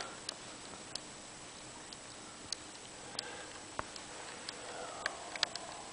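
Faint, irregular light clicks and taps, about a dozen scattered over a few seconds, with no steady machine sound.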